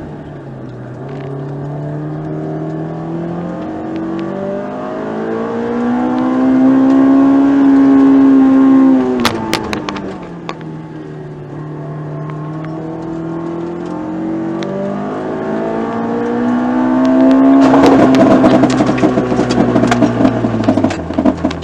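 Honda S2000's four-cylinder engine revving hard under acceleration, climbing and easing off twice. Near the end, at high revs, a sudden harsh clatter of rapid knocks breaks out and carries on as the revs fall: the engine blowing.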